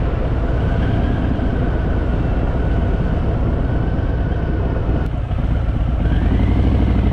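Harley-Davidson V-twin motorcycle engine running under way, easing off briefly about five seconds in and then pulling up in pitch as it accelerates.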